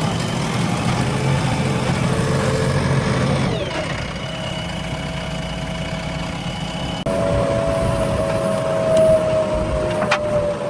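JCB 3DX backhoe loader's diesel engine running steadily, with a whining tone over it. The pitch drops about a third of the way in, and the sound changes abruptly about two-thirds of the way through.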